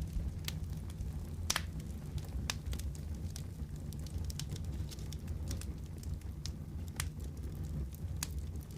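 Wood fire crackling: scattered sharp pops and snaps, a few louder than the rest, over a steady low rumble.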